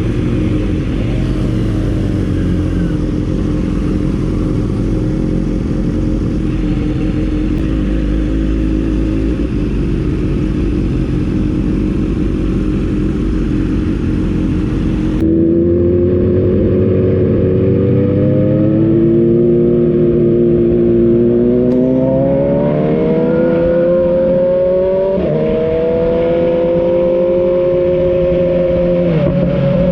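Motorcycle engine running at a steady pace with wind rushing past. About halfway the sound changes abruptly, and the engine's pitch then climbs steadily as it accelerates, dropping briefly near the end before picking up again.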